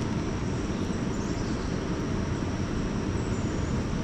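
Steady rush of water pouring through a spillway running high after heavy rain.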